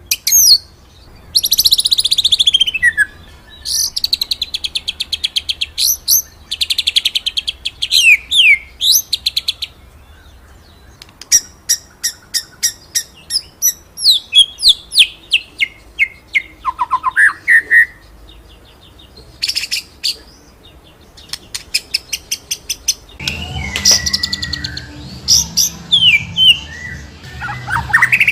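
White-rumped shama (murai batu) singing loudly in varied bursts: fast rolling trills, sweeping whistled notes that rise and fall, and quick runs of sharp clipped notes. Near the end a low background hum joins under the song.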